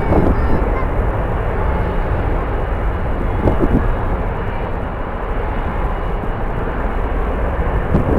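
Airliner jet engines running at the airport, a steady dense rush, mixed with heavy low wind rumble on the microphone.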